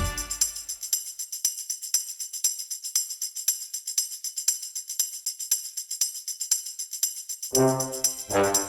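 Background music: after the full band drops out, jingling hand percussion keeps a steady rhythm of several strokes a second on its own. Pitched instruments come back in near the end.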